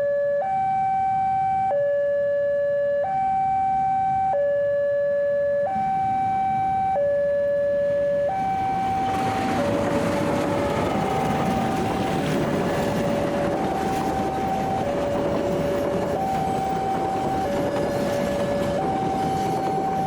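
Railway level-crossing warning alarm sounding a steady two-tone hi-lo signal, each tone held for about a second and a quarter. About halfway through, the rumble of an approaching train rises underneath it.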